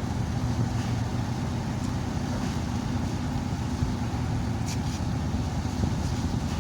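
Steady low engine rumble with a constant hum, under a haze of wind and outdoor noise.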